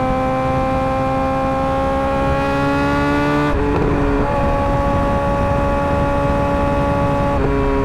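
Suzuki GSX-R600 inline-four running at high revs through an M4 GP slip-on exhaust. The note climbs for about three and a half seconds, breaks briefly and drops on a gear change, then holds steady, with another short dip near the end.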